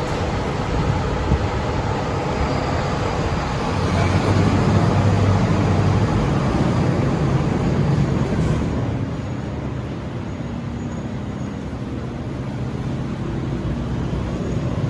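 Fire engine's diesel engine running as the truck drives off, a heavy low rumble that grows louder about four seconds in and eases off after about nine seconds.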